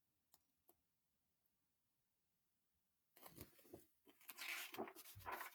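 A few faint clicks, then paper rustling from about three seconds in: a picture book's page being turned.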